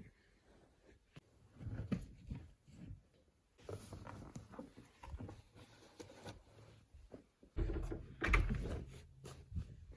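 Things being handled: scattered light knocks, clatters and rustling, with a louder low rumbling thump about eight seconds in.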